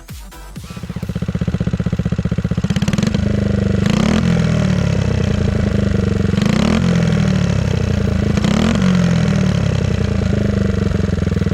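Honda Super Cub 50's small four-stroke single-cylinder engine running through a newly fitted rb-works megaphone muffler. It comes in about half a second in, idles with a fast, even putter, and is blipped briefly four times.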